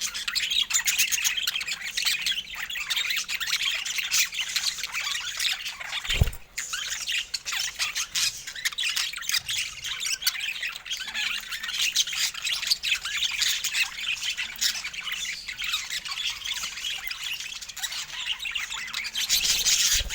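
A flock of budgerigars chattering, with constant overlapping chirps and squawks. A brief low thump about six seconds in.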